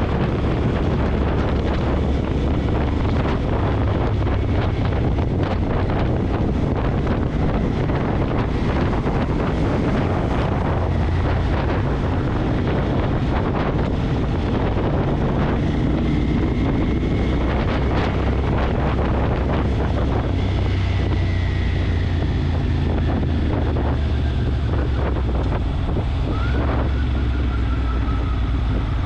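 Motorcycle running on the move, with wind buffeting the microphone over a steady low rumble. Faint whistling tones slide downward in pitch in the last third.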